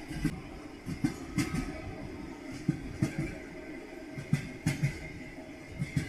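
Train wheels clattering over rail joints: groups of short knocks, often in pairs, come every second or two over a steady rolling rumble.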